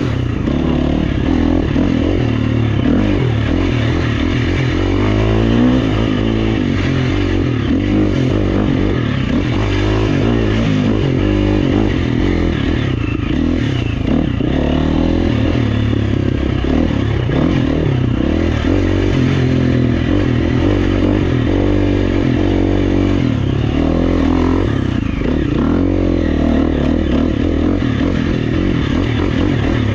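Four-stroke single-cylinder engine of a GasGas EX350F dirt bike, revving up and down continuously as it is ridden along trail, with rattling and scraping from the bike over rough ground.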